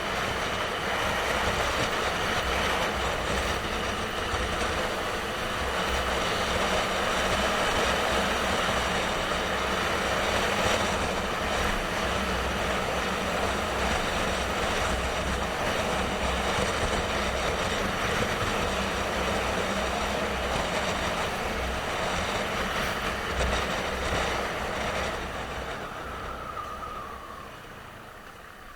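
Motorcycle on the move, its engine and rushing wind noise steady and loud; near the end it slows down, the engine pitch falling and the noise dropping away.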